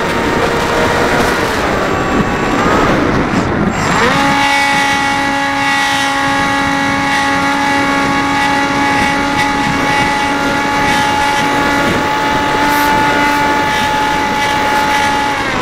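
Dynam Hawk Sky RC plane's electric motor and propeller whining in flight, over wind noise. Its pitch dips and then rises about three seconds in as the throttle changes, then holds a steady whine.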